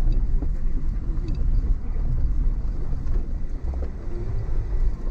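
Car being driven, heard from inside the cabin: a steady low rumble of engine and tyres with a few light knocks.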